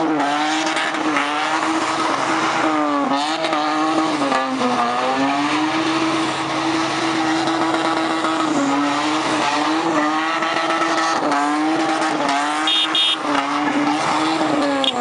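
Car engine held at high revs, wavering and dipping briefly several times, as a Lexus IS saloon spins donuts on wet tarmac, with tyre noise underneath.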